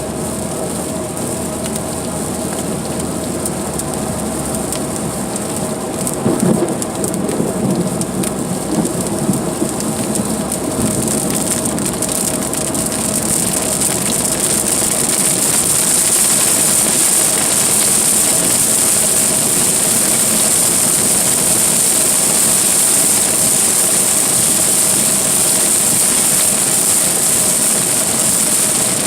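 Heavy rain pelting a moving car, a steady loud hiss that grows heavier about eleven seconds in. A low rumble comes through from about six to ten seconds in.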